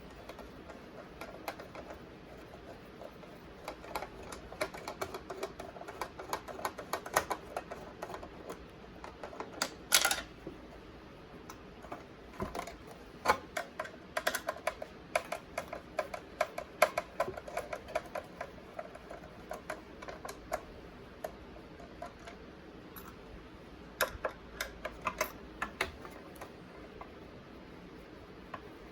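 A Phillips screwdriver backs screws out of a plastic refrigerator ice caddy: bursts of rapid small clicks, with the plastic parts clacking as they are handled, one louder clack about ten seconds in.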